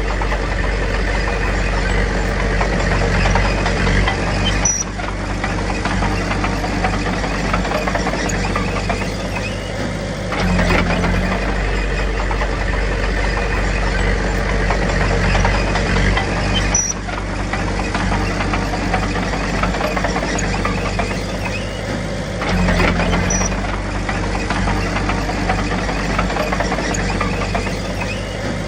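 Komatsu D21P bulldozer's diesel engine running steadily under work, its pitch and loudness shifting about every five to six seconds.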